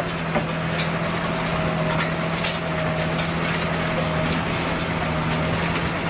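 Engine of a heavy wood-working machine running at a steady speed, a constant low hum, with scattered short clicks and cracks over it.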